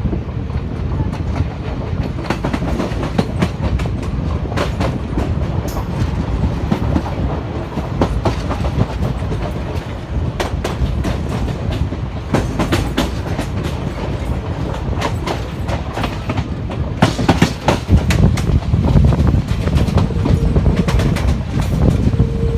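Passenger express coach running on the rails, heard from its open doorway: a steady rumble with the clickety-clack of wheels over rail joints. The clatter grows louder and busier about eighteen seconds in, and a faint steady whine joins near the end.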